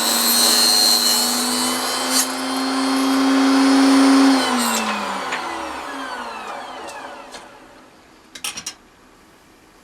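Proxxon KS 230 miniature table saw running with a steady whine, then switched off about four seconds in, its pitch falling as the blade spins down. A few light clicks follow near the end.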